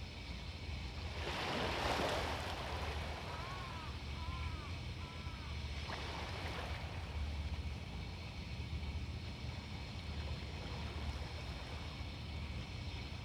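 Sea waves washing onto the beach, with one louder wave breaking about two seconds in, over a steady low wind rumble on the microphone.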